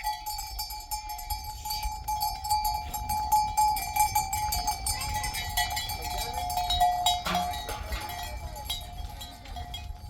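Bells worn by grazing sheep clinking and ringing continuously as the flock moves, several bells sounding together with many small irregular strikes.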